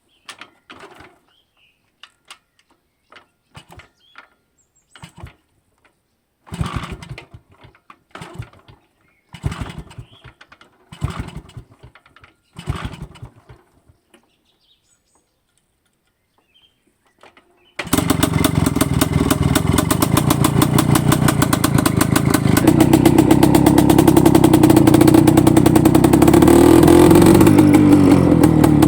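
An IZh-49 motorcycle's single-cylinder two-stroke engine being started. Five short sputtering attempts about a second and a half apart, then it catches about two-thirds of the way in and runs steadily, getting louder a few seconds later.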